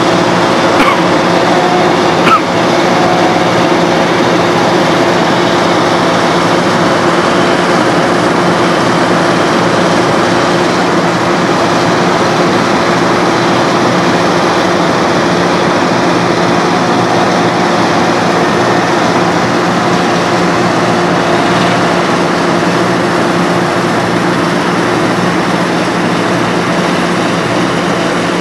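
Heavy diesel road-construction machinery running steadily: a continuous engine drone with a short sharp knock about two seconds in.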